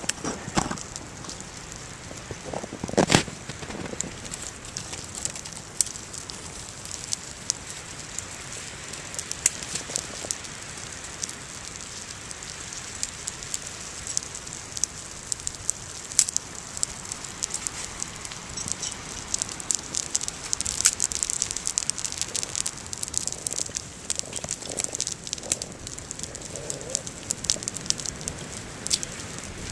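Small campfire crackling, with sharp pops and snaps throughout and a louder knock about three seconds in.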